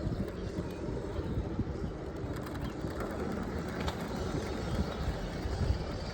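Steady low rumble of wind and riding noise on a phone microphone during an e-bike ride, with a bird calling faintly.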